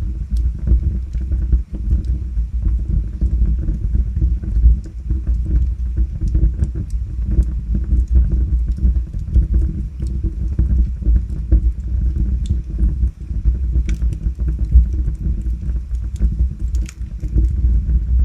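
Wood fire burning in a fireplace: a steady low rumble of the flames with frequent small crackles and pops from the logs, a few sharper pops in the second half.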